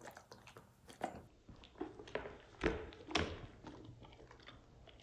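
A small dog chewing blueberries: irregular wet crunches and jaw clicks, the loudest two about halfway through.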